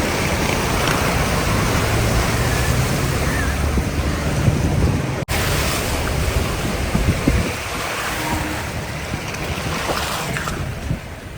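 Steady rushing noise of fast-flowing mountain river or waterfall water, mixed with wind on the microphone. The sound breaks off sharply about five seconds in and resumes slightly quieter.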